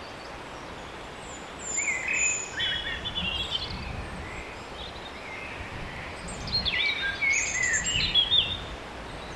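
Small woodland songbirds singing at dusk: two spells of quick, varied high-pitched song phrases, one about a second and a half in and another about six and a half seconds in, over a steady low background noise.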